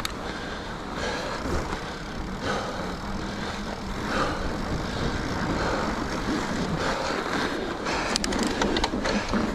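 Mountain bike riding over a groomed snow trail: a steady rumble of tyre and rolling noise, with a quick run of sharp clicks about eight seconds in.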